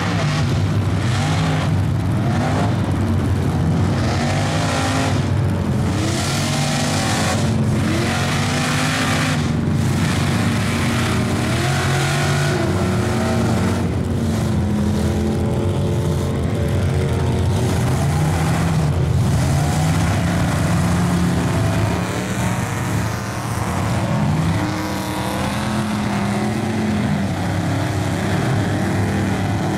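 Off-road truck engine revving hard, its pitch climbing and falling again and again under heavy throttle.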